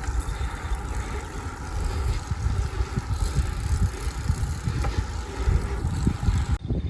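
Wind buffeting the microphone of a moving bicycle's camera, an uneven low rumble with a layer of road hiss; the hiss cuts off suddenly just before the end.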